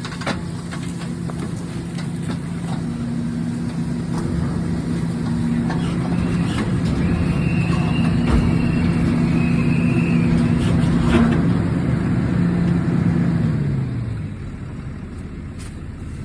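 Grapple truck's engine running at raised speed while the hydraulic loader arm works, with a high whine through the middle and a few sharp knocks. Near the end the engine drops back to idle, its note falling.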